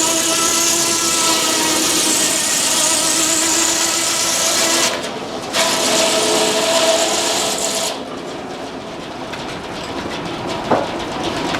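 Frick sawmill's circular saw blade cutting through a log with a steady ringing whine and hiss. The sound dips briefly about five seconds in. The cut ends about eight seconds in, leaving the mill running quieter.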